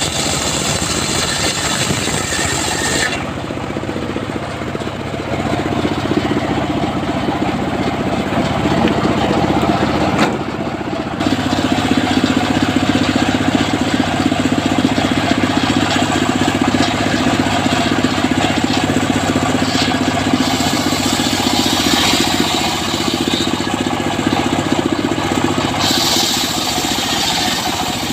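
Engine of a homemade circular sawmill running steadily, its tone changing abruptly about three seconds in and again about eleven seconds in, with a hissing, high-pitched cutting noise at the start and near the end.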